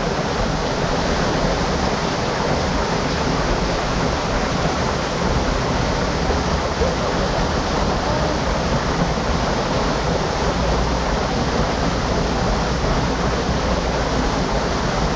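Hot-spring water rushing steadily, an even, unbroken wash of sound.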